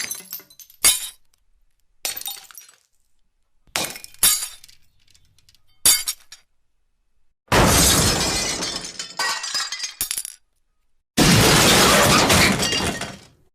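Glass breaking sound effects: about six short shattering crashes with tinkling fragments, separated by silence. Then two longer, heavier crashes of glass shattering, each lasting two to three seconds.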